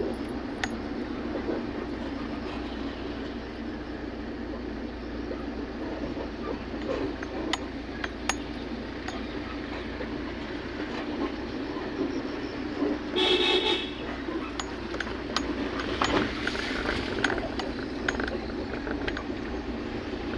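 A vehicle running steadily on the road, with scattered small clicks and rattles. A horn toots once, briefly, about two-thirds of the way through.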